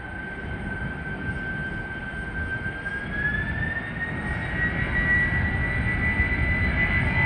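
Four jet engines of a Boeing 747-400 freighter spooling up for takeoff: a steady engine whine that rises in pitch about three seconds in, over a low rumble that grows steadily louder.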